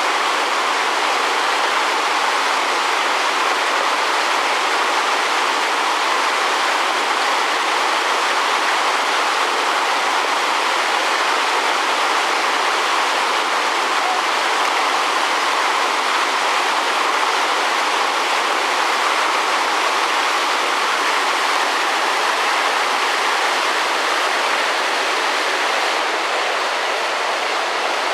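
Rushing river water: a steady, loud rush of fast-flowing whitewater.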